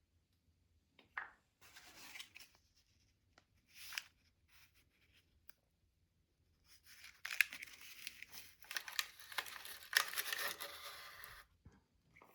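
Tubeless tyre repair kit being handled and opened, with packaging rustling and tearing in short bursts, then a longer spell of steady rustling and ripping about seven seconds in.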